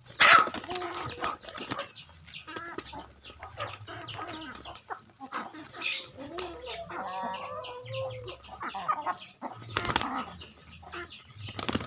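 Chickens clucking, with loud bursts of wings flapping near the start and about ten seconds in.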